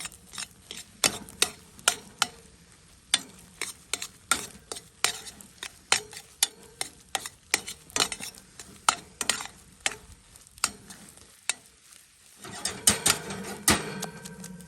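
Fried rice being stir-fried in a pan over a campfire: a metal spatula repeatedly clacks and scrapes against the pan, about two or three strokes a second, over a sizzle. The strokes pause briefly near the end, then the sizzling and clattering grow louder.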